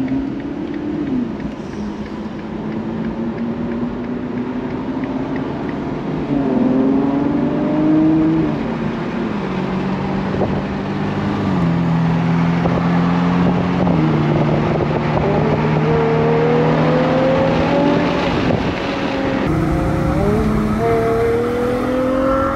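Ferrari 812 GTS's naturally aspirated 6.5-litre V12 accelerating hard through the gears. The pitch climbs with each gear and drops at every upshift, with the longest pull near the end.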